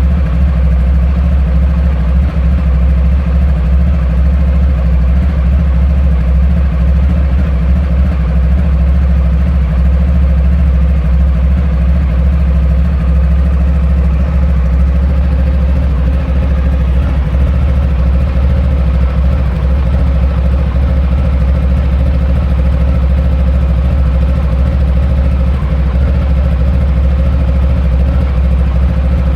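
Honda ST1100 Pan-European's V4 engine idling steadily, warming up after a cold start.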